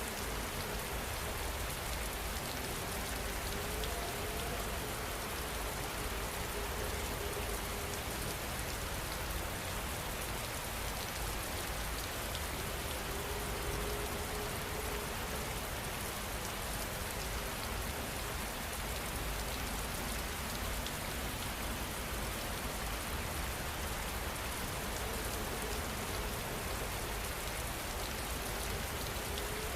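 Steady rain falling, an even hiss of many drops with a low rumble underneath, unchanging throughout.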